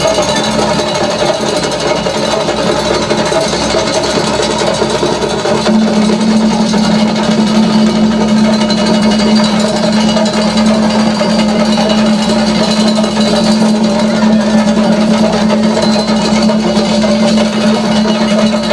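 Live percussion ensemble drumming a fast, dense, continuous beat, with a low steady tone growing louder about six seconds in.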